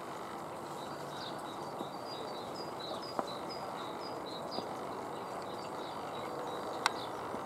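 A small bird singing a run of short, high, repeated chirps over a steady background rush. Two sharp clicks stand out, the louder one near the end.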